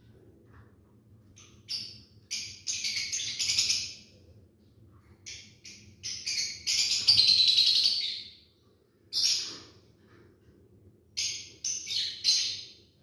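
Lovebirds calling in shrill, harsh chirps that come in clusters, with the longest and loudest run of chatter about seven seconds in.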